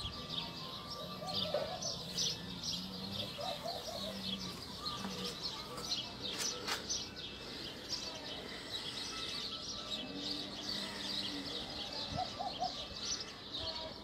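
Small birds chirping continuously: a dense chatter of short, rapid chirps.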